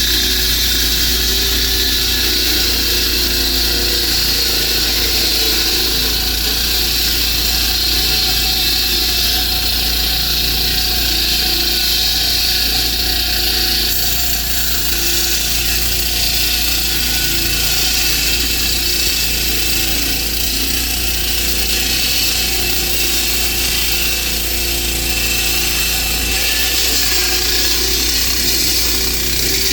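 Handheld 20-inch concrete saw running steadily under load as its blade cuts deep into a concrete slab, wet-cut with water.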